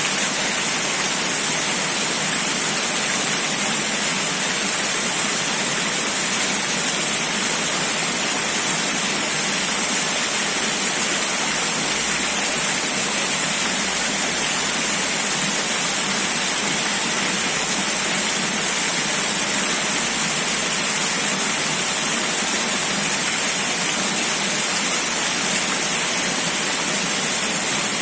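Steady, unbroken rush of water with a strong high hiss, unchanging throughout.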